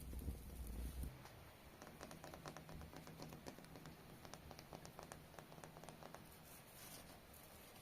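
Close-miked rapid, irregular light clicks and taps, after a low rumble that stops about a second in.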